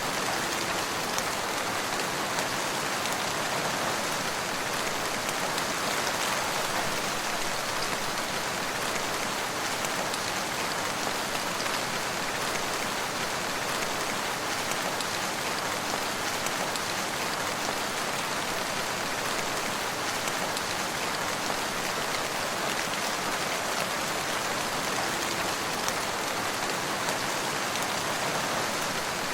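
Steady rain falling, an even hiss of many drops with faint scattered individual drop ticks.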